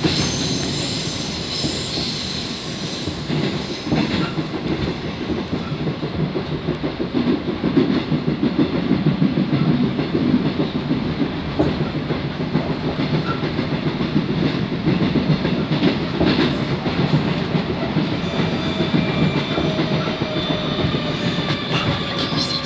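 Train running on rails with a steady rumble and a rhythmic clickety-clack knocking, which the rider puts down to wheel flats. Near the end a whine sets in and falls slowly in pitch.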